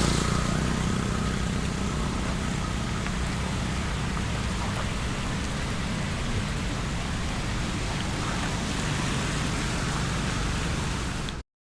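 Steady rain and road traffic noise on a flooded road. A louder swell at the start fades within the first second, and the sound drops out completely for about half a second near the end.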